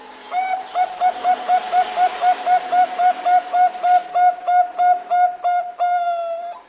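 Zebra dove (perkutut bangkok) calling: a fast run of about twenty short, clipped coos, close to four a second, ending in one longer drawn-out note that dips at the end.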